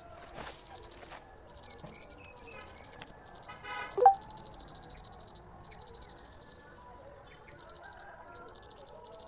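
Insects trilling steadily in a fine, even pulse. About four seconds in comes one short, loud, pitched call or honk.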